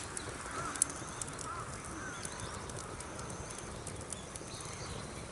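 Wood campfire crackling, with a few sharp pops, the loudest about a second in, over a steady hiss. A few faint short chirps come in the first couple of seconds.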